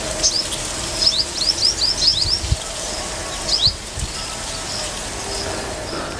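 Small birds chirping: quick series of short, high, downward-sliding chirps, thickest a second or two in and again briefly past the middle, over a steady outdoor hiss.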